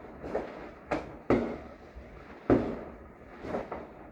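Neighbourhood fireworks going off, heard from inside a house: about five sharp bangs, each trailing off in a short rumble, the loudest about a second and a half and two and a half seconds in.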